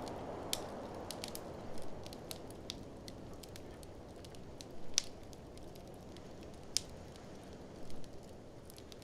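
Wood fire in a fireplace crackling, with irregular sharp pops and snaps, two of them louder about five and seven seconds in, over a low steady rush of noise.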